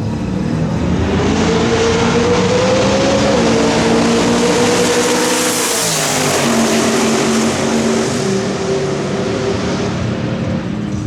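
Twin-turbo V8 race car at full throttle in a roll race, engine pitch climbing through the revs. About six seconds in the pitch drops sharply on an upshift, then climbs again in the next gear.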